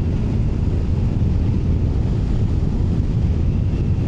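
Triumph Tiger 900 Rally Pro motorcycle riding along with a steady low engine drone, heavily covered by wind buffeting on the microphone.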